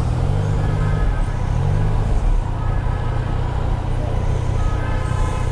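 Yamaha Niken's three-cylinder 850 engine running through its aftermarket Akrapovic exhaust, its pitch rising and falling briefly in the first two seconds, then holding steady.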